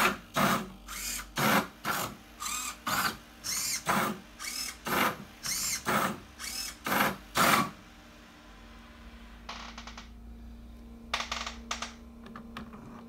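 Motors of a 3D-printed Rubik's cube solving robot turning the cube's faces in quick succession, about two short whirring moves a second, each with a rising and falling whine. The moves stop about eight seconds in, leaving a steady low hum, and a few more brief moves come near the end.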